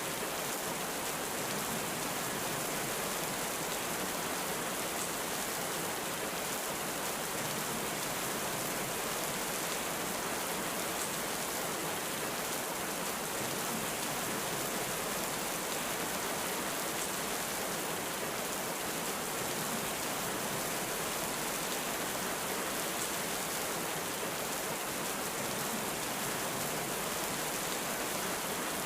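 Heavy rain falling at a steady, unbroken hiss, with no thunderclap in this stretch.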